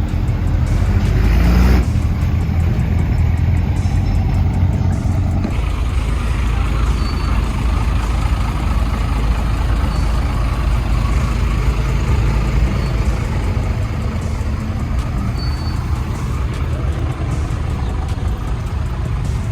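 Car engine rumbling steadily, with a brief louder burst of revving about two seconds in.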